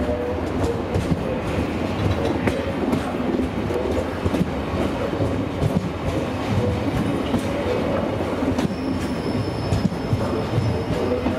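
Passenger train coaches rolling slowly past with a steady rumble, the wheels clicking over rail joints. A thin high wheel squeal joins in about nine seconds in.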